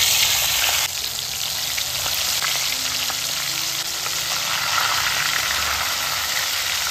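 Chicken wings frying in hot oil, a loud crackling sizzle that is strongest in the first second after they go in, then settles into a steady sizzle.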